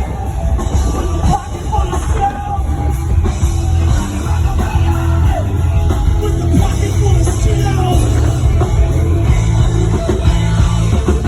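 Rock band playing loud, heavy rock music: electric guitar over strong bass and drums, with some sung or shouted vocals.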